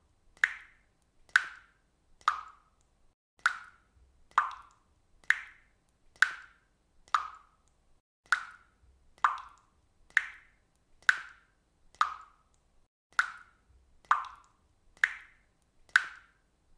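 Water dripping from a faucet: single drops plopping steadily, about one a second.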